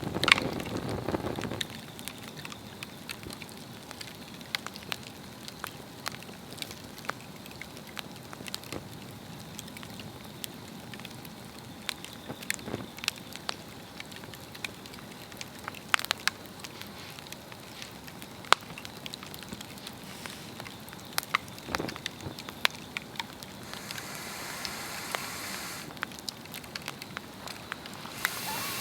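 Swedish torch, a log slit and burning from the inside, crackling: scattered sharp pops over a low steady hiss of flame. A louder low rumble fills the first second or so, and the hiss rises briefly near the end.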